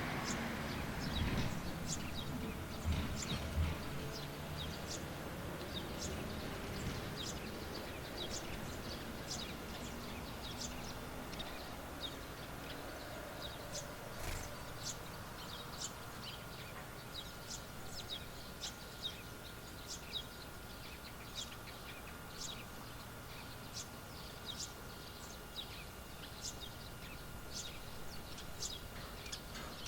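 Small birds chirping over and over, short high calls several times a second. A low rumble fades out in the first few seconds, and a faint steady high tone sounds from about halfway on.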